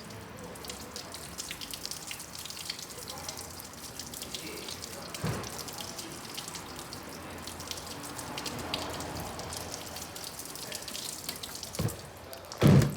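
Water poured down the outside of a car's front passenger window, trickling and dripping through the door: a water test showing the door membrane letting water in. A knock about five seconds in, and two loud thumps near the end.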